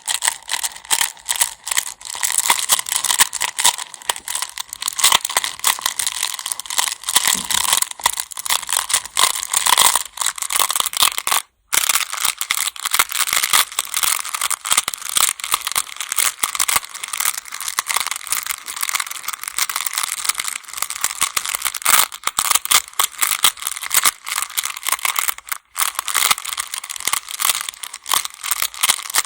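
Go (baduk) stones clattering against one another: a dense, continuous rattle of small hard clicks, broken by a brief silence about a third of the way in and again near the end.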